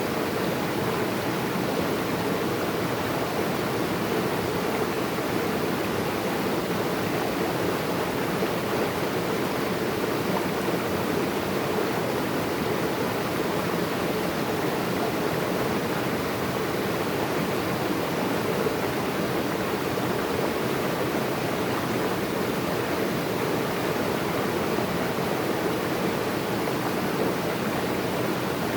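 Running water making a steady, unbroken rush with no breaks or changes.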